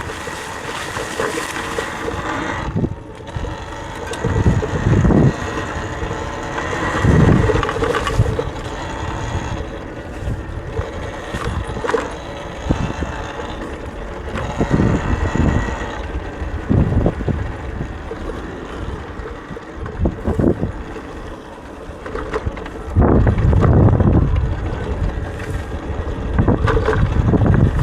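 Talaria electric dirt bike ridden on a trail: a thin, steady motor whine under low gusts of wind buffeting the microphone, heaviest near the end.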